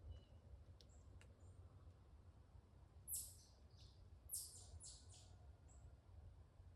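Faint woodland ambience: a low steady rumble with small, sparse bird calls. There are a few tiny high chips, a pair of short scratchy calls about three seconds in, and four more in quick succession between four and five and a half seconds in.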